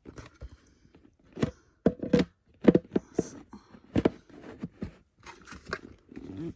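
Plastic parts of a Hoover Elite Rewind Plus upright vacuum being handled and fitted back together: an irregular run of clicks, knocks and scrapes.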